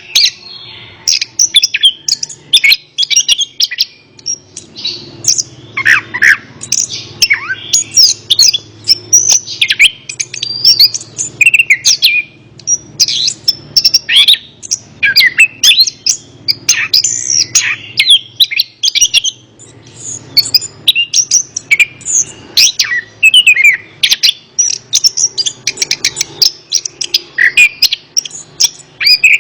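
Chestnut-capped thrush (anis kembang) singing a fast, unbroken run of varied chirps, sweeps and whistles, over a faint low hum.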